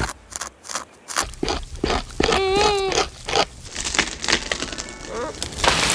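Repeated irregular scraping and cracking of wood, typical of a beaver gnawing into a tree trunk. A short wavering whine sounds about two and a half seconds in.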